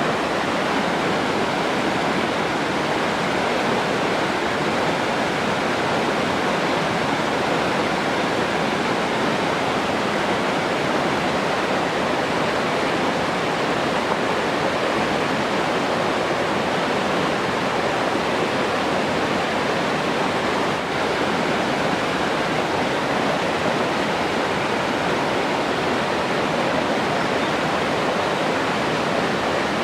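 Running water rushing steadily, an even noise that never breaks.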